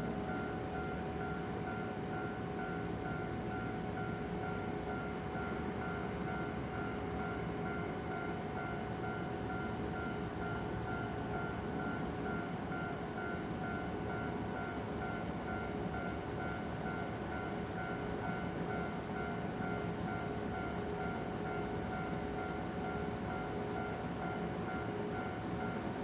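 JR Kabe Line train running through a level crossing: a steady mix of rumble and rail noise with a few steady tones over it, holding an even level throughout.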